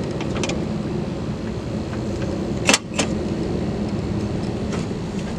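A car engine idling steadily, with two sharp metallic clinks close together about three seconds in.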